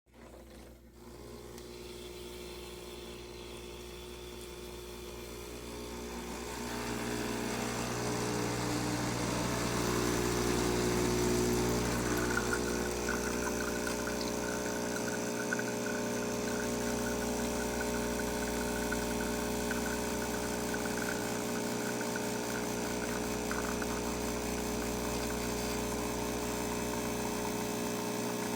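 Breville Bambino espresso machine's vibration pump running with a steady buzzing hum while it pulls a shot; faint at first, it grows louder over the first several seconds and then holds steady.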